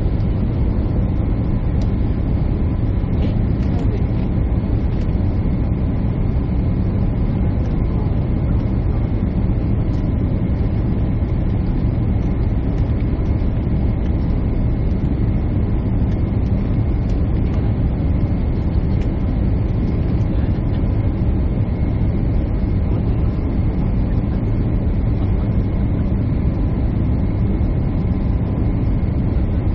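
Jet airliner cabin noise heard from a window seat: a steady, even drone of the engines and airflow. Faint steady tones sit above the low rumble.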